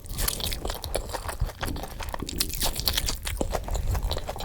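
A person chewing and biting crunchy food, close to the microphone: a quick, irregular run of crunches and wet mouth clicks.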